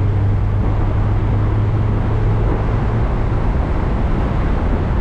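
Mazda MX-5 Miata's engine running steadily at speed, with road and wind noise in the open-topped car.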